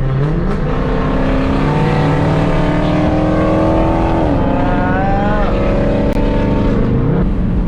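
Muscle car's engine revving up right at the start, holding a steady pitch under load for several seconds, then dropping back in pitch near the end.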